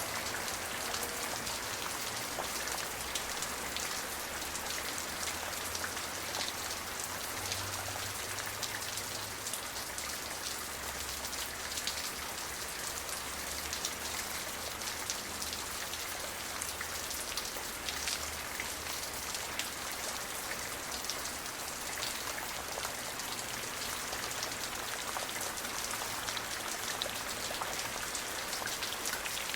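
Steady rain falling, a dense patter of individual drops hitting a surface, with a faint low rumble underneath.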